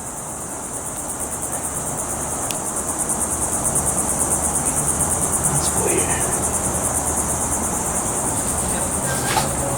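A chorus of crickets chirping in a continuous high, rapidly pulsing trill, with a low steady hum beneath it.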